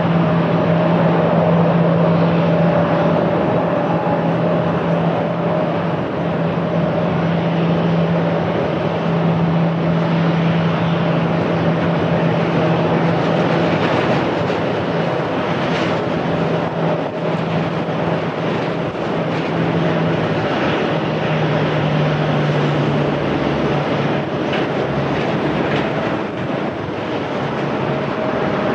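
Steady drone of aircraft engines at an airport, a constant hum over a wide rushing noise.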